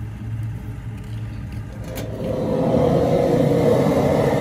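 A motor vehicle's engine running, growing louder about two seconds in as it revs or pulls closer.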